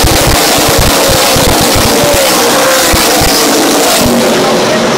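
A field of NASCAR race trucks' V8 engines running at full throttle on a restart: a loud, steady din of many engines, with several engine pitches wavering up and down against each other.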